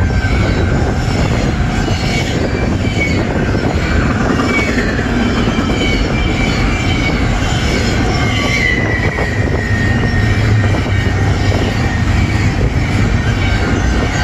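Double-stack container freight train passing close at speed: steady noise of the cars' wheels running on the rails, with thin high wheel squeals wavering in pitch.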